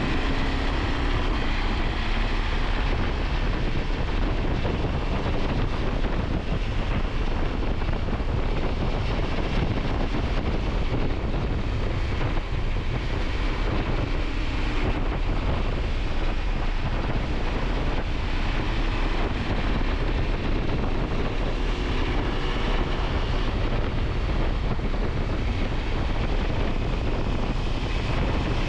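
Wind buffeting the camera microphone at riding speed, with the KTM 890 Adventure's parallel-twin engine running steadily underneath.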